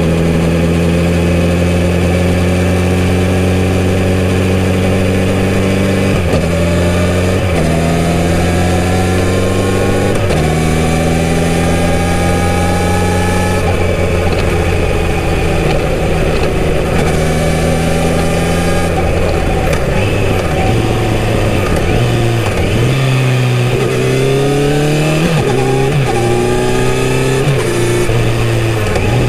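Kawasaki Z900RS inline-four motorcycle engine with a full-system exhaust, under way. It runs at a steady pitch for the first few seconds, then climbs and drops sharply several times as the bike shifts up through the gears. Near the end the pitch rises and falls repeatedly with throttle and downshifts.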